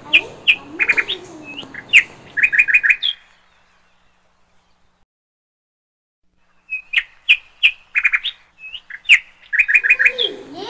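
Birdsong sound effect: a run of quick, bright bird chirps, a gap of silence, then the same run of chirps again.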